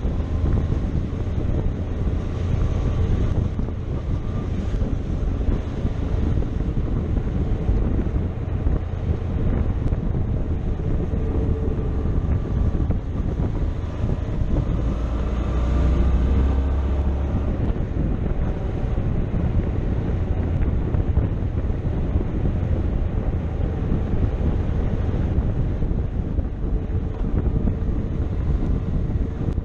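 Motorcycle engine running on the road, buried in heavy wind noise on the microphone; the engine note shifts in pitch about halfway through.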